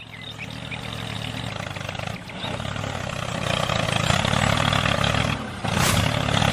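Small engine running steadily with a low pulsing rumble. It gets louder about four seconds in and dips briefly, followed by a short sharp burst near the end.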